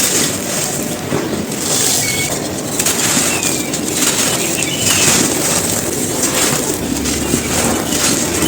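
Dry, gritty cones crumbling and crushing in a continuous run of crunches and crackles. Faint bird chirps come through a few times behind it.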